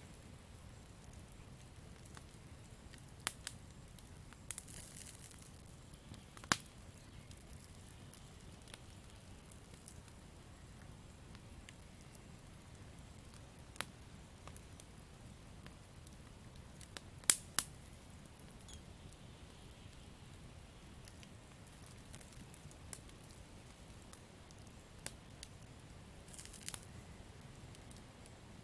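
Campfire crackling: scattered sharp pops and snaps of burning wood over a low, steady background, with one loud pop about two-thirds of the way through and a couple of brief hisses.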